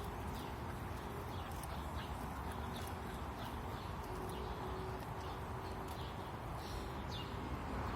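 Songbirds chirping: short, quick falling chirps repeated about twice a second, over a steady low rumble of wind.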